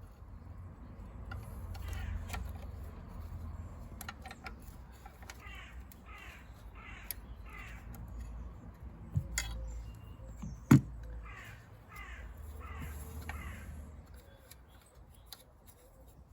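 A crow cawing in two runs of about four caws each. Scattered sharp metallic clicks come from hand-tool work in the car's engine bay, the loudest a little over ten seconds in.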